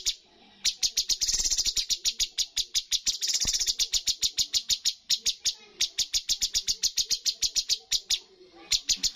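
Cucak cungkok songbird giving its rapid-fire 'tembakan' song: long runs of sharp, high, evenly repeated notes, about ten a second. The runs break off briefly a little after the start, about five seconds in, and again about eight seconds in.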